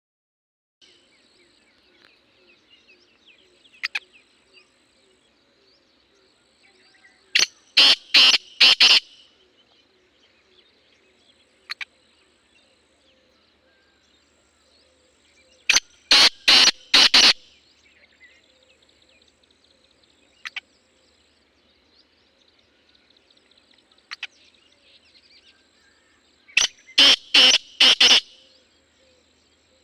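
Black francolin (kala teetar) calling: three loud, harsh calls about eight seconds apart, each a quick run of four or five grating notes. Faint chirping of other small birds between them.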